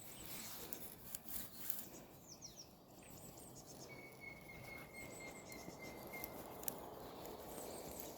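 Small birds calling: clusters of short, high, falling chirps, and one long, thin, steady whistled note lasting about three seconds in the middle, over a faint, even rustle.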